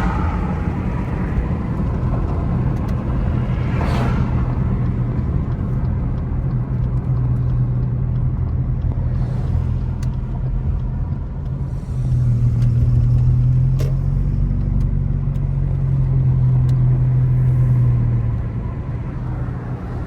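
Car engine and road noise heard from inside the moving car: a steady low drone, with the engine note growing louder for several seconds past the middle, as under acceleration or climbing, then easing off near the end. A brief rushing sweep comes about four seconds in.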